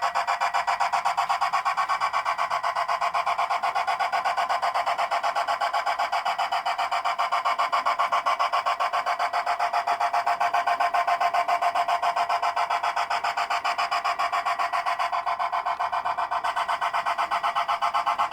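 A G scale model train running on the track: a steady, fast, rasping rhythm, like the gear drive and wheels grinding at an even pace.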